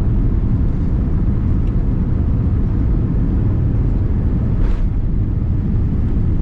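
Steady rumble of airliner cabin noise aboard a Boeing 787-8 Dreamliner, even and unchanging, mostly deep in pitch.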